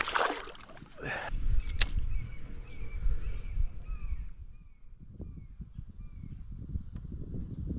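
Streamside outdoor ambience: a steady high drone of insects, a bird giving a run of short descending chirps about twice a second, and low rumbling on the microphone, with a sharp click about two seconds in.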